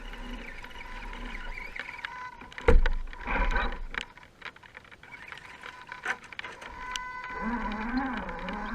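Electric motor and drivetrain of an Axial SCX10-type RC rock crawler whining, its pitch rising and falling with the throttle over a steady high whine. There is a sharp knock about three seconds in, followed by a brief rattly burst.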